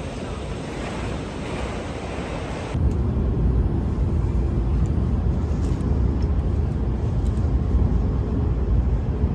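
Open-air hiss of a busy station forecourt, then, about three seconds in, a sudden cut to a louder steady low rumble: a train running, heard from inside the carriage.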